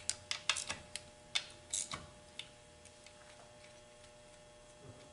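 A quick run of sharp, light clicks and taps, as of small transmission parts or tools being handled, stopping about two and a half seconds in. A faint steady hum runs underneath.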